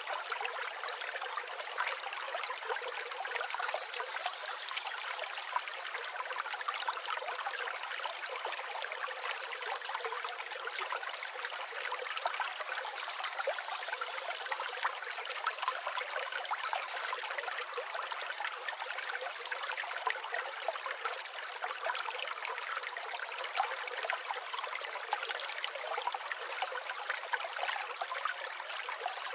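Flowing river water running and trickling steadily, a light, even rush with no low rumble. A faint high bird call is heard about four seconds in and again about sixteen seconds in.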